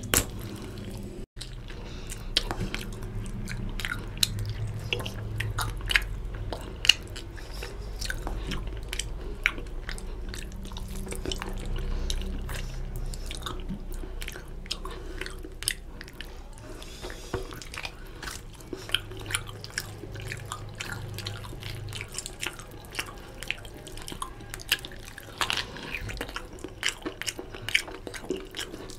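Close-miked chewing and biting of oily mutton trotter meat off the bone: wet mouth sounds with frequent sharp clicks and smacks.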